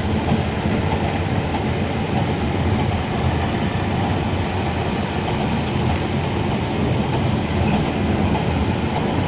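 Steady running noise of a passenger train heard from inside the carriage: the wheels rolling on the rails, with the sound mostly low.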